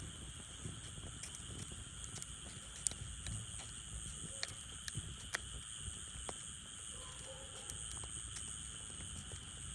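Burning firewood crackling, with irregular sharp pops and snaps scattered throughout.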